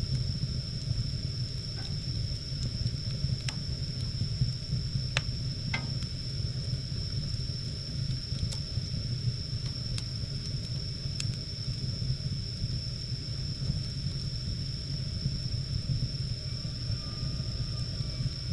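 Wood fire burning with a steady low rumble and a few scattered sharp crackles, about five in all. A steady high-pitched whine runs underneath.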